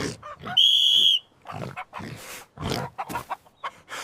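Pigs grunting and oinking in a quick series of short sounds. A single loud, steady, high-pitched whistle blast lasting about half a second comes about half a second in.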